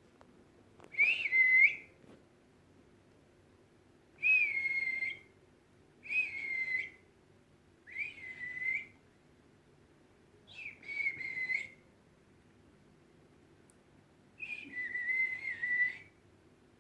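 A person whistling six drawn-out notes with pauses between them, each gliding down and then holding steady, to call pet budgies.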